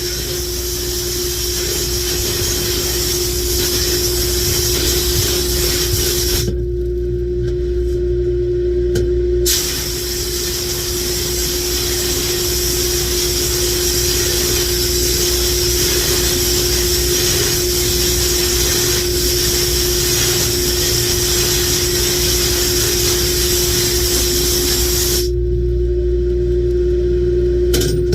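Glass bead blast cabinet cleaning engine valves: a loud hiss of compressed air and glass bead media, over a steady motor hum. The blasting stops for about three seconds around six seconds in, then runs again and cuts off near the end.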